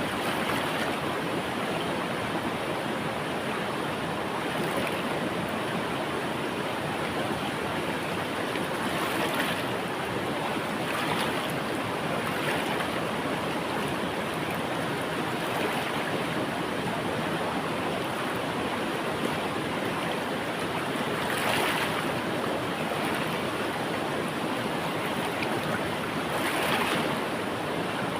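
Flowing river water rushing steadily, with a few brief swells of brighter splashing.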